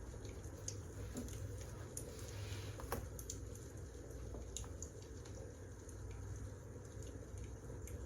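Wood fire crackling: irregular small pops and snaps over a steady low rumble, with one sharper pop about three seconds in.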